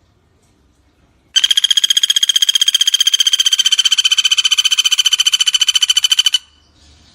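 Common flameback woodpecker (pelatuk bawang) giving a long, fast rattling call of evenly spaced ringing notes, about a dozen a second, starting about a second and a half in, lasting about five seconds and stopping abruptly.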